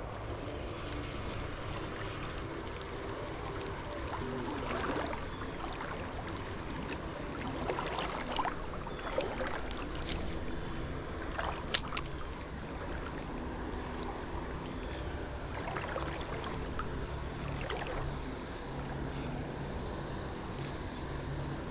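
Sounds from a fishing kayak on a river: water lapping and sloshing against the hull, with scattered small knocks and clicks of gear on the boat and one sharp click about twelve seconds in.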